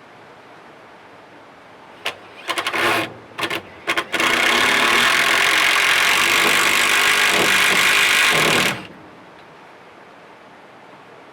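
A motor-driven power tool, blipped in a few short bursts and then run steadily for about four and a half seconds before cutting off abruptly.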